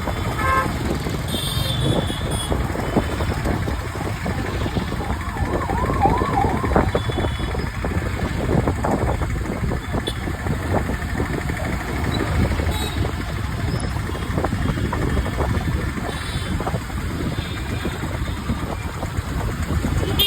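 Street traffic and wind noise heard from a moving bike, with vehicle horns honking a couple of seconds in and a wavering horn-like tone about six seconds in.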